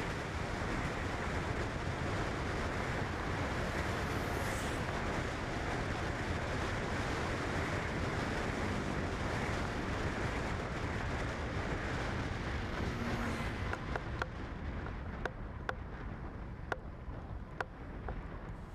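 Steady rushing wind and road noise from a moving vehicle. The rush eases about 14 s in, and a series of sharp clicks follows.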